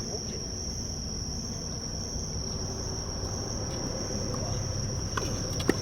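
Insects chirring in a steady, high-pitched drone, with a few sharp knocks of a tennis ball near the end.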